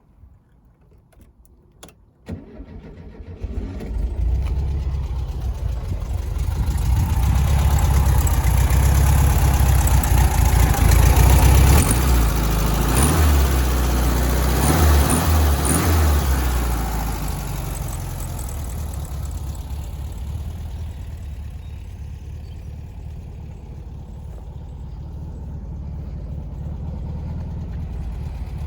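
An engine starting about two seconds in, then running louder and faster for around ten seconds before settling to a lower, steady idle.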